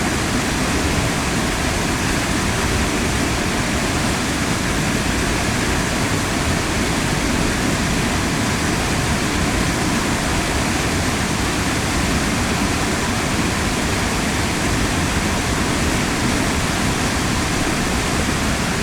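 Waterfall: heavy falling water making a loud, steady rush across all pitches.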